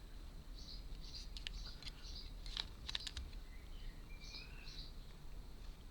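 Faint bird chirps in the background, with a quick cluster of small sharp clicks near the middle as tiny model parts are handled.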